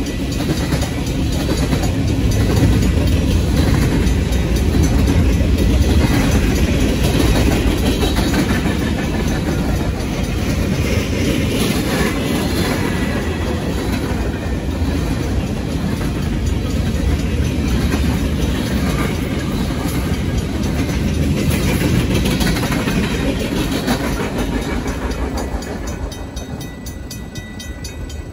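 Freight cars rolling past on the rails, wheels clacking and rumbling, with the grade-crossing bell ringing steadily over it. About 26 seconds in the last car goes by and the rumble falls away, leaving the bell.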